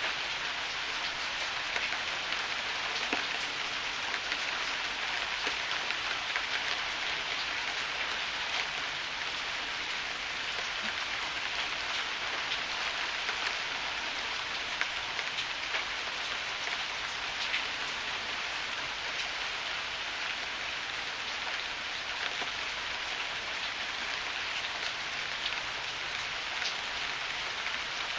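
Heavy rain falling steadily, a dense even patter with scattered sharper drop hits.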